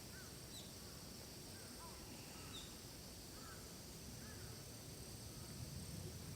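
Faint forest ambience: short, scattered bird chirps over a steady high insect drone and a low background rumble.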